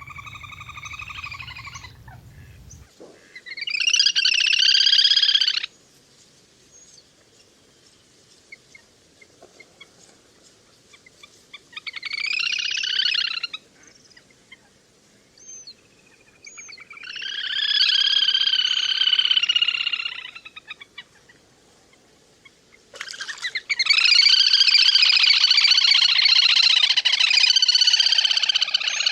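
Recorded calls of the le le hôi waterbird: bouts of high, rapidly repeated trilling notes, five bouts of two to six seconds each with quiet gaps, the last the longest, played as a lure to call the flock in.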